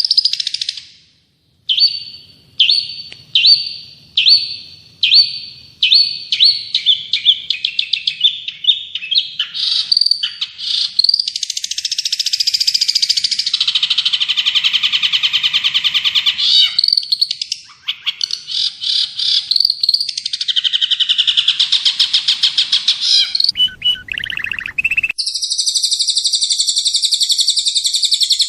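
Recorded songbird song, spliced from several recordings, used as masteran tutoring material. High chirps about a second apart speed up into long, fast rolling trills. After a sudden cut near the end comes a sustained buzzy phrase.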